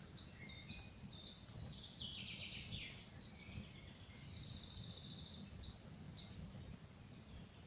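A songbird singing a run of quick upward-sweeping notes broken by two fast trills, over a steady low rumbling background noise.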